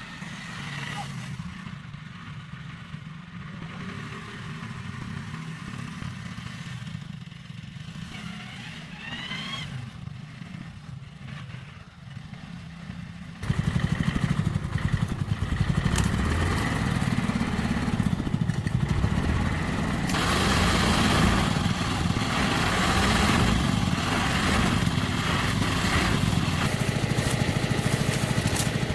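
A small engine running steadily, quiet at first, then suddenly much louder and rougher about halfway through. A brief rising chirp is heard near the middle.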